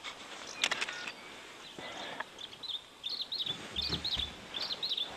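A bird chirps repeatedly, a run of short high notes through the second half. There is a sharp click about a second in, and a brief low rumble near the end.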